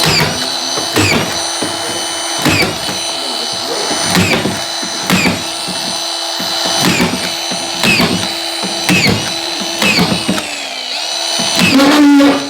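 Power screwdriver running steadily with a high whine, driving screws through plasterboard into a timber ceiling frame. Its pitch dips briefly with a click each time the bit engages or a screw seats, roughly once a second, and it strains louder near the end.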